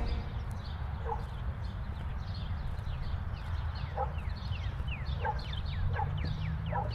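Birds chirping: a string of quick, high, downward-sliding chirps that come thicker and faster in the second half, with a few short lower calls between them, over a steady low rumble of outdoor ambience.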